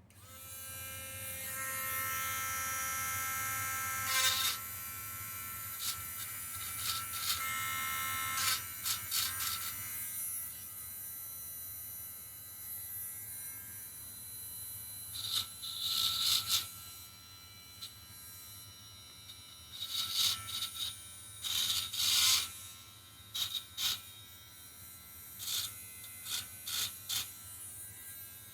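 Cheap handheld rotary tool spinning up and running with a steady high whine, its bit grinding against the engine block in repeated short, harsh rasps to take off burrs and rough edges.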